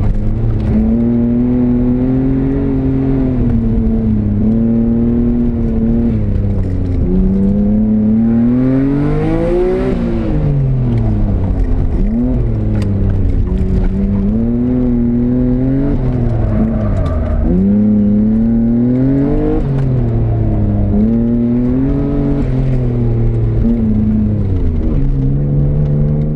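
Nissan R32 Skyline's engine heard from inside the cabin during a hard autocross run, its revs repeatedly climbing and dropping as the car accelerates and slows between cones, peaking highest about ten seconds in.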